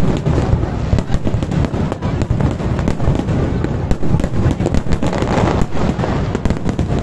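Aerial firework shells bursting in quick succession: deep overlapping booms with many sharp cracks throughout, with no pause.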